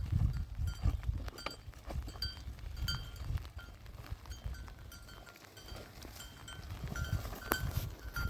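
Small livestock bells, as on goats, jingling irregularly over low knocks and thumps.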